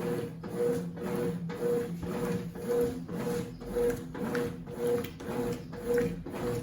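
Consul CWC08 8 kg washing machine agitating a load: a motor hum and the swish of the wash, pulsing in an even rhythm a little under twice a second.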